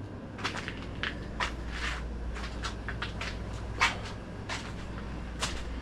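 Irregular light knocks and scuffs, about a dozen, as a sheetrock panel is handled and shifted against the wall framing, over a faint low steady hum.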